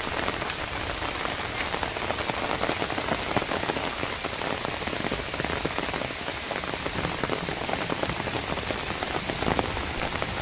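Steady rain falling on leafy vegetation, with many individual drops ticking close by.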